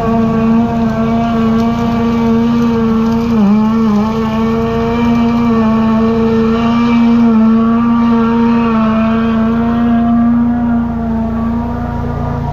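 High-pressure drain jetter's engine and pump running steadily under load, its pitch dipping briefly about three and a half seconds in.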